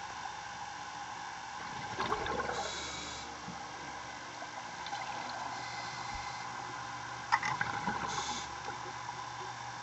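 Underwater recording of a scuba diver breathing: two gurgling bursts of exhaled bubbles about five seconds apart, each with a brief regulator hiss, over a steady hum.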